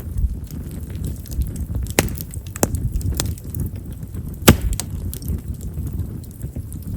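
Campfire of chestnut firewood crackling over a steady low rumble, with a few sharp pops, the loudest about four and a half seconds in. Chestnut's large pores make it a wood known for popping as it burns.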